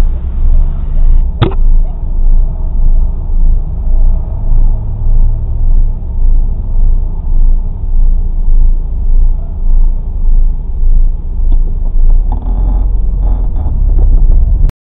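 Low rumble of a stationary car idling, picked up in the cabin by a dash cam microphone, pulsing steadily about one and a half times a second. A sharp click comes about a second and a half in, and a short higher pitched sound comes near the end.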